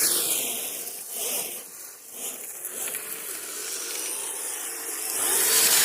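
Kyosho Blizzard radio-controlled tracked snow vehicles driving, their electric motors whining up and down with the throttle over the hiss of the tracks churning snow. It gets louder about five seconds in.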